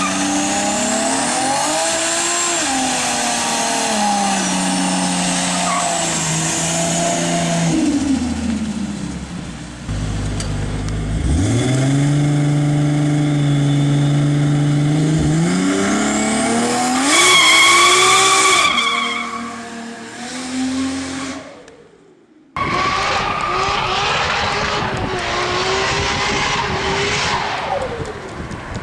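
Toyota Supra MK4's turbocharged 2JZ-GTE straight-six engine revving up and falling back again and again, with a high whistle over it for a couple of seconds past the middle. The sound drops away and cuts off abruptly about two-thirds through, then another burst of the engine running hard follows.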